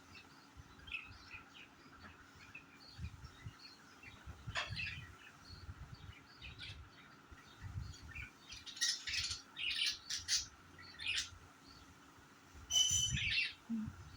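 Pet budgerigars chirping in short, scattered calls, busiest in the second half, with occasional low thumps underneath.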